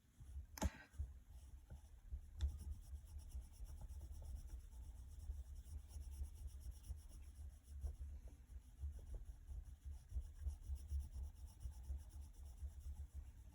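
Faint scratching of a drawing tool on paper as a shape is sketched, with one sharp click about half a second in.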